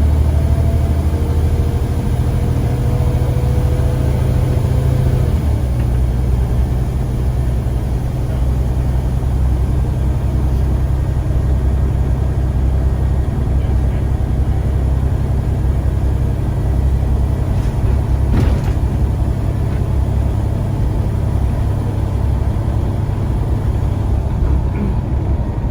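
Scania CN94UA bus engine running under way with a steady low rumble and a transmission whine. The whine rises and then cuts off about five seconds in as the engine note changes, typical of a gear change.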